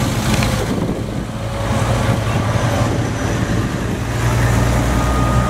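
Old cars' engines running at low revs as they drive slowly past one after another, a steady low rumble that grows a little louder near the end.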